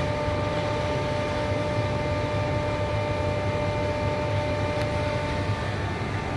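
A vehicle or machine running steadily: a low rumble under an even hiss, with several steady whining tones held throughout.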